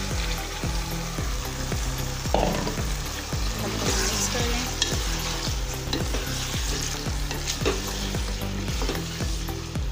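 Chopped tomatoes sizzling in hot oil with garlic in a pot, stirred with a wooden spatula.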